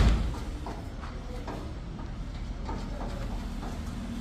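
One heavy thud at the start, then faint scattered knocks and clatter, typical of formwork being knocked loose and stripped from concrete walls.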